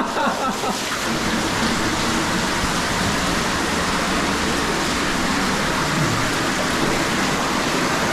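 Steady, loud rush of flowing water, an even hiss that cuts off suddenly at the end.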